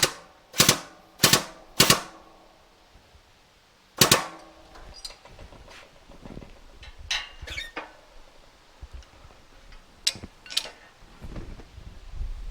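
Sharp metal knocks with a short ring: four in quick succession, about one every 0.6 s, then a fifth about four seconds in, followed by lighter clicks and taps of metal parts being handled at the press while a motorcycle fork tube is straightened.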